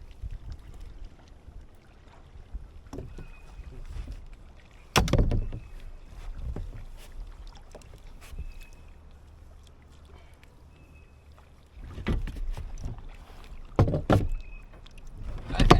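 Knocks and thumps on the Old Town kayak's hull as a landed bass and gear are handled aboard, the loudest about five seconds in and a cluster near the end, over a low rumble of wind on the microphone.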